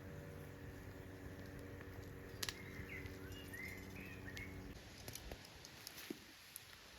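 Quiet outdoor ambience with a bird chirping several short calls over a low steady hum that stops about two-thirds of the way through; a single sharp click comes just before the chirps.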